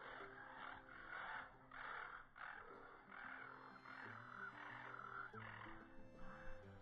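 Faint chattering and scratchy warbling of aviary budgerigars, in quick repeated bursts about twice a second.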